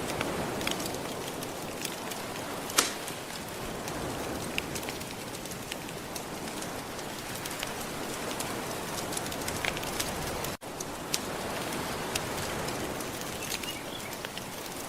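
Wood fire crackling with scattered sharp pops over a steady wash of soft ocean waves. One louder pop comes about three seconds in, and the sound cuts out for a split second about two-thirds of the way through.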